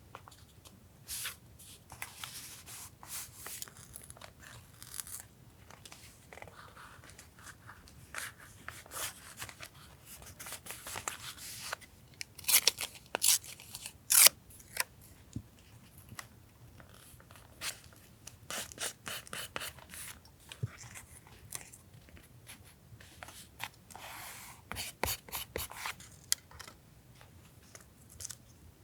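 Close-up handling of paper and stickers for a journal collage: irregular rustling, rubbing and tearing with many small sharp clicks, loudest in a cluster of snaps about twelve to fourteen seconds in.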